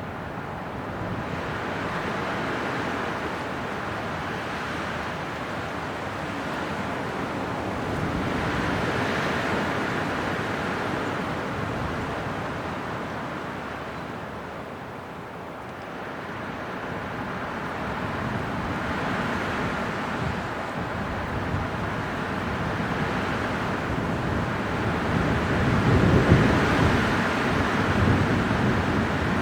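Winter wind blowing in gusts, a steady rushing that swells and eases slowly: it rises early on, drops low about halfway, then builds to its strongest near the end with a deep buffeting rumble.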